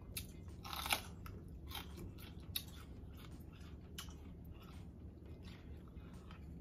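A person biting into a raw sweet mini pepper, with a loud crisp crunch about a second in, then chewing with many small clicks and another sharp crunch near the middle.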